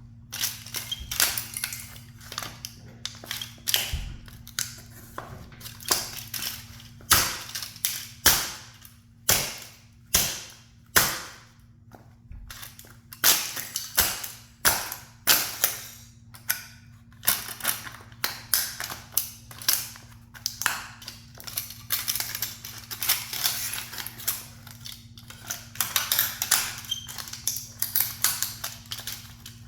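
A toy sports car being crushed under a high heel: irregular sharp cracks and crackling crunches of breaking plastic, some single loud snaps and some dense runs of crackle, over a steady low hum.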